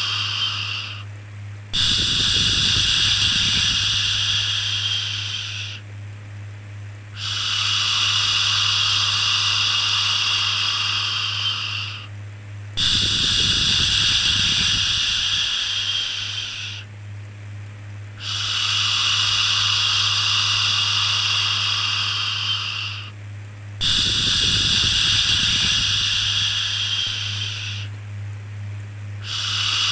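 A drawn-out 'shhh' shushing sound for soothing a baby, repeated about six times, each shush lasting four to five seconds with a short pause between. A steady low hum runs underneath.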